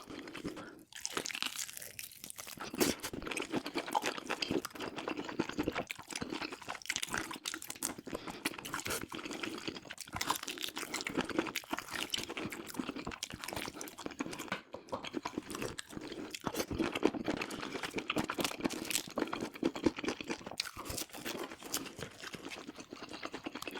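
A person eating close to the microphone: steady chewing and biting, a quick run of wet clicks and crunches.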